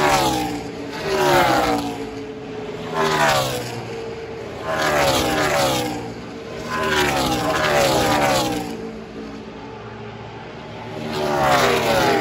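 NASCAR race trucks' V8 engines passing at speed on track one after another, each engine note dropping in pitch as it goes by, about seven passes.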